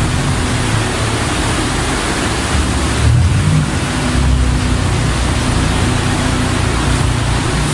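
Modified Ford Ikon's engine idling steadily, with two light throttle blips about three and four seconds in.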